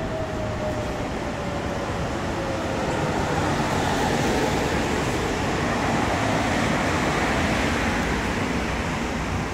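Street traffic passing: a steady rush of road noise that swells in the middle, with a faint falling whine over the first three seconds.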